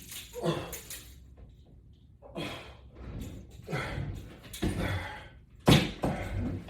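A man breathing out hard in short puffs, one with each pull on a resistance band, about a second apart. Near the end there is one sharp knock.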